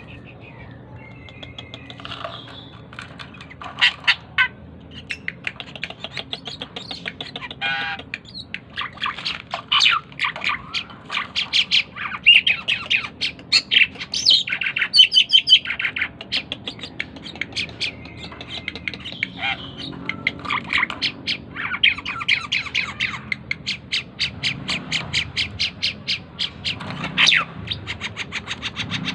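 Jalak keling glossy starling calling busily: rapid runs of harsh squawks and sharp chirps, repeated in quick trains with brief pauses.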